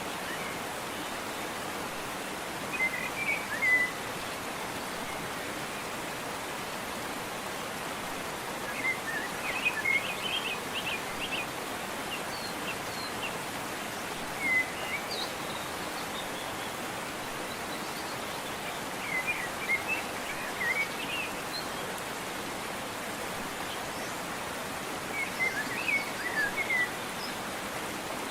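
Steady rush of a waterfall, with short phrases of songbird chirping coming in five times over it.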